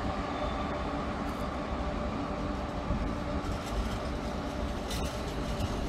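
Freight train of covered wagons rolling past behind a class 1600 electric locomotive: a steady noise of wheels running on the rails, with a few light clicks in the second half.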